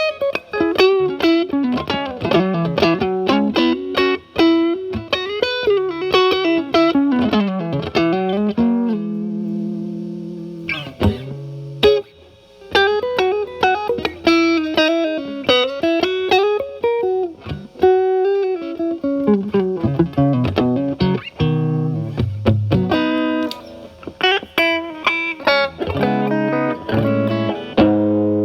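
Fender Stratocaster played through a Paul Cochrane Timmy transparent overdrive pedal, gain at 12 o'clock, into a Marshall Valvestate amp's clean channel. It runs fast single-note lead lines with string bends, holds one long note about nine seconds in, then plays repeated chord stabs near the end.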